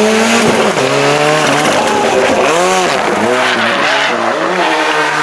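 Ford Sierra Cosworth Group A rally car's turbocharged four-cylinder engine revving hard. Its pitch climbs and drops again and again as it is worked through gear changes and lifts.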